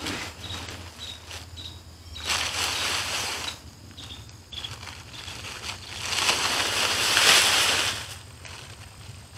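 Plastic tarp loaded with sweet potatoes rustling and scraping as it is dragged and handled, in two long spells about 2 and 6 seconds in, the second louder, over a low steady hum.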